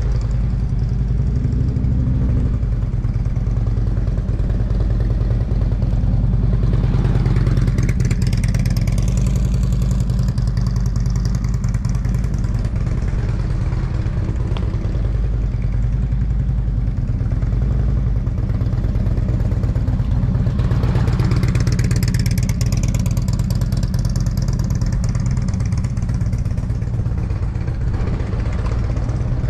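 Motorcycle running throughout over a steady low drone, swelling and falling in pitch as it passes close by twice, about a quarter of the way in and again about two-thirds through.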